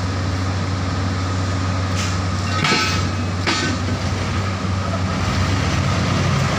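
Heavy diesel engine running steadily, with a few metallic clanks about three seconds in.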